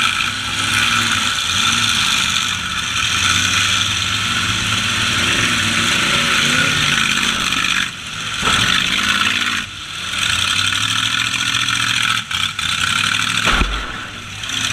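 Demolition-derby truck engines revving up and down under hard throttle, with a dense, harsh noise over them. A sharp knock comes about eight seconds in and another near the end.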